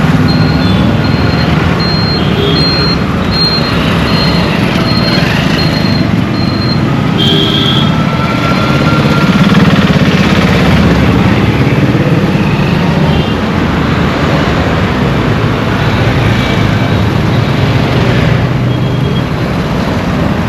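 Busy Indian road traffic heard from a moving vehicle: steady engine and tyre noise with a low hum. A high beep repeats about twice a second for the first six seconds, and short high honks come about seven seconds in and near the end.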